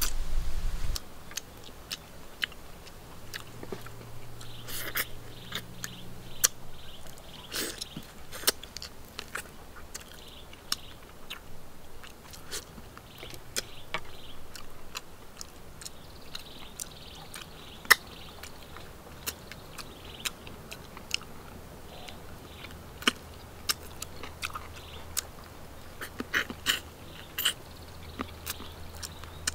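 Close-up eating of cooked duck pieces: wet mouth smacks and sharp clicks of biting and chewing, scattered irregularly, with the sharpest click about 18 s in. A low rumble is heard in the first second.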